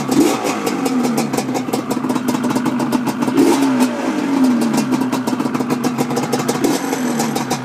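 Yamaha Banshee 350's twin-cylinder two-stroke engine idling through Toomey expansion pipes, blipped four times, each rev rising and dropping back to idle. With the exhaust leaks sealed with high-heat silicone, it runs way quieter, without the old pipe rattle.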